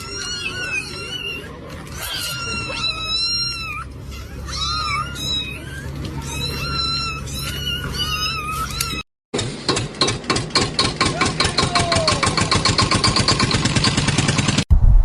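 Kittens mewing: high, repeated cries that bend in pitch, for about nine seconds. After a brief cut, a fast, even run of short sharp pulses follows.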